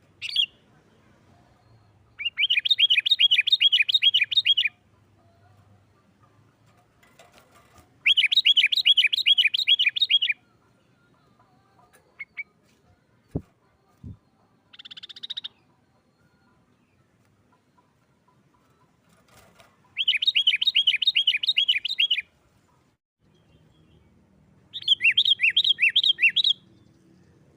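Sooty-headed bulbul (kutilang) singing its fast, agitated 'nggaruda' chatter, the fighting-type song that provokes rival bulbuls. It comes in four bursts of about two seconds each, every burst a rapid run of evenly repeated high notes, with a few short single calls between.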